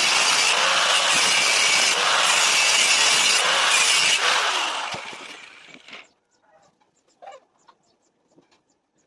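Loud, steady rasping noise of a tool cutting or grinding. It fades out between about four and six seconds in, followed by a few faint clicks and taps.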